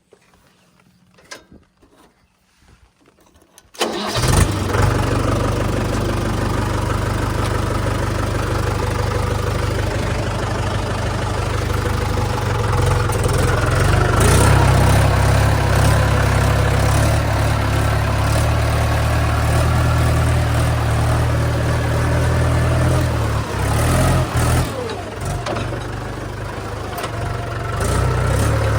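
Mahindra 475 tractor's four-cylinder diesel engine, after a few seconds of quiet with faint clicks, starts suddenly about four seconds in and then runs steadily. Its loudness dips and wavers briefly a few seconds before the end.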